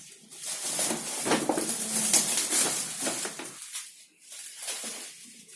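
Rustling and handling of the toy train set's cardboard box and packaging, with light knocks as pieces are moved about.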